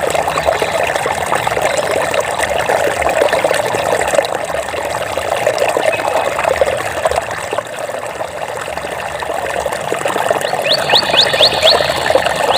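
Water trickling and bubbling steadily, with a quick run of high, rising chirps near the end.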